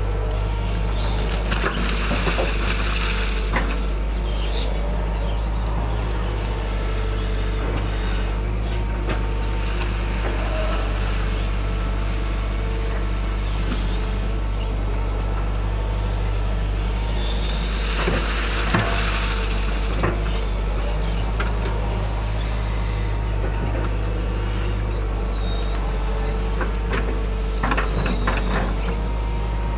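Hydraulic excavator's diesel engine running steadily with a low drone, with two bursts of hissing, about two seconds in and again a little past halfway, and a few sharp knocks near the end.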